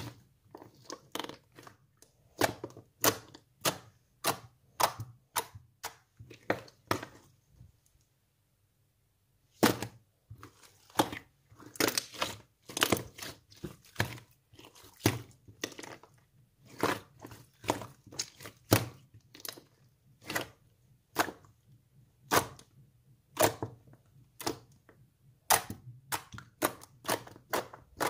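Hands squeezing and folding slime, each press popping trapped air with a short, sharp crackle, about one or two a second, with a brief pause about eight seconds in.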